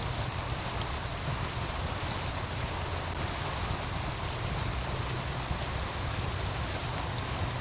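Wood fire crackling, with scattered sharp pops and ticks, over the steady rush of a small meltwater stream and a low rumble underneath.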